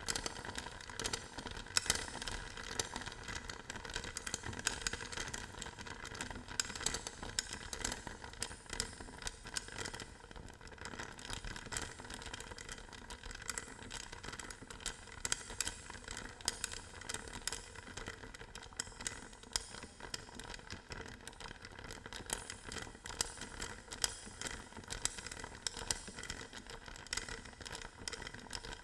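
Hard balls being handled close to the microphone as ASMR triggers: a continuous run of small clicks, rattles and scrapes.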